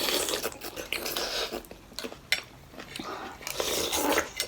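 Eating utensils clinking against a dish, a few sharp clicks, between stretches of noisy eating.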